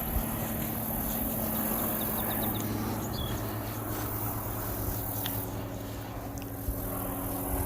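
Outdoor summer ambience: a steady high insect drone under a low rumble of wind on the microphone, with a few short bird chirps about three seconds in.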